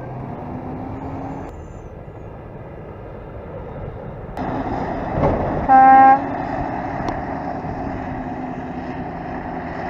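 Heavy farm vehicle engines running steadily, louder from about four seconds in, with one short, loud horn blast about six seconds in.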